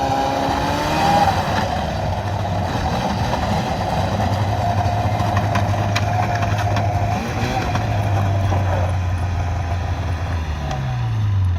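A small engine running steadily with a droning hum; near the end its pitch drops as it slows down.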